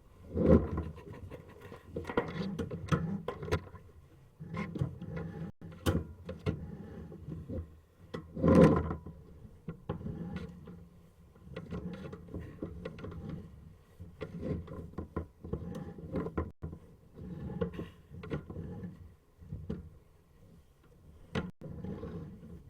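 Sewer inspection camera push cable being fed and worked through a drain line: irregular scraping and rubbing with knocks, the loudest bumps just after the start and about eight seconds in.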